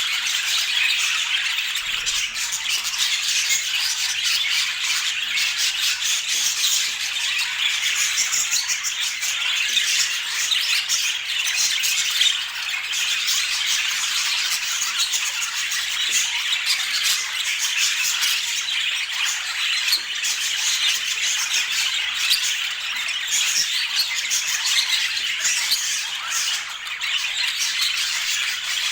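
Budgerigar chatter and warbling: a dense, unbroken stream of chirps and squawks at a steady level.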